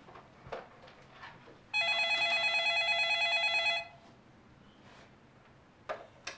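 Corded landline telephone ringing: one electronic, warbling ring of about two seconds that stops as the handset is lifted. Two short clicks near the end.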